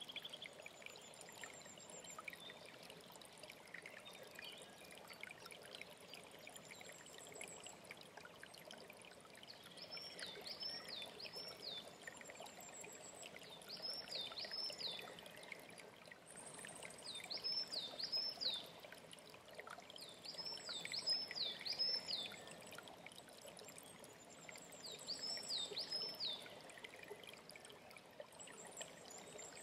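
Stream running steadily with birdsong: from about ten seconds in, a bird repeats a short phrase of two or three quick high notes every three to four seconds, and thin, higher notes sound now and then.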